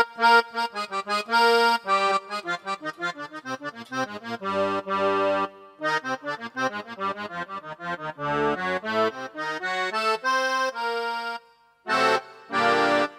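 Accordion tone on a Casio digital keyboard with AiX sound, playing quick runs of short notes mixed with held chords, with a brief pause near the end before a final chord.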